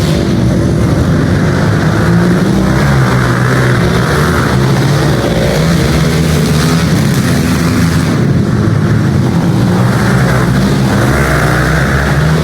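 Pit bike engines racing, their pitch rising and falling as the riders open and close the throttle.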